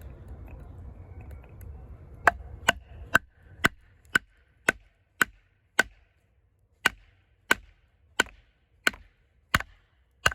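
A baton hammering the spine of an Eafengrow EF-143 fixed-blade knife with an AUS-10 steel blade, driving it across the grain of a thick piece of wood in cross batoning. A steady run of sharp whacks, about two a second, starts about two seconds in.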